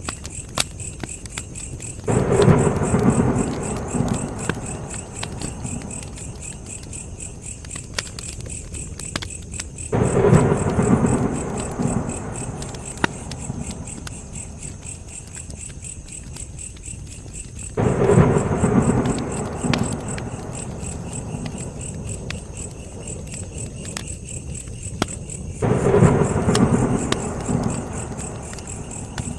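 Crickets chirping steadily over a crackling campfire with occasional sharp pops, while a low rushing swell rises suddenly and fades away four times, about every eight seconds.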